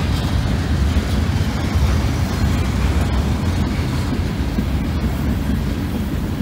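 Freight train's cars, open gondolas and covered hoppers, rolling past close by: a steady rumble of steel wheels on the rails.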